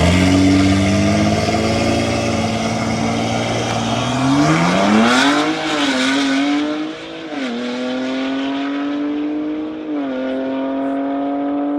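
Cars accelerating hard in a drag race, their engines at full throttle from a loud launch, with the pitch climbing and then stepping down at gear changes about twice.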